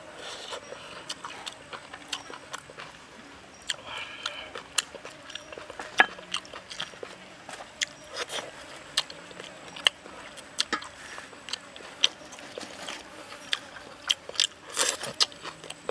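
Close-up eating sounds: a person chewing chicken and fresh herbs, with lip smacks and many short, sharp mouth clicks.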